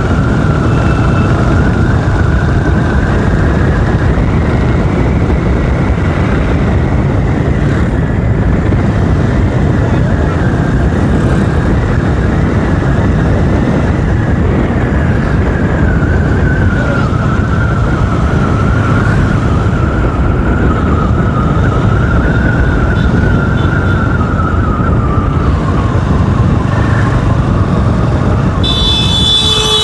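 Motorcycle riding: steady rush of wind and engine noise on the rider's microphone, with a thin whistle that wavers slightly in pitch throughout. A brief higher tone comes in near the end.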